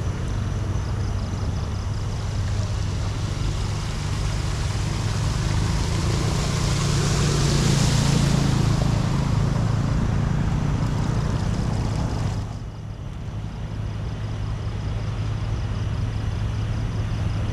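An engine running steadily under a rushing noise that swells about six to nine seconds in and drops away briefly near the thirteen-second mark.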